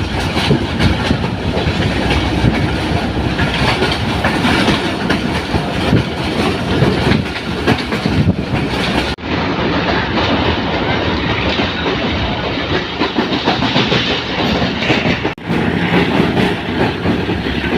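Train running on the rails, with a steady clatter of wheels and carriages. It breaks off for an instant twice, about halfway and near the end.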